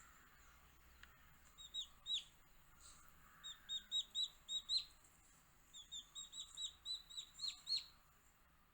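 Baby chicks peeping: short, high chirps in quick runs, a few about two seconds in, then a run of about six, and a longer run of about ten that stops near the end.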